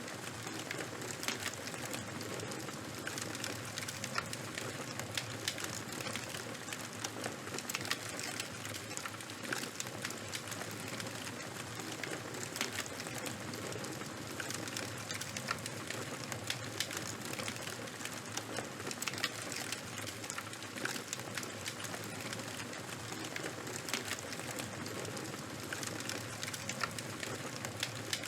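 Fire crackling: a steady hiss with frequent small sharp pops and snaps.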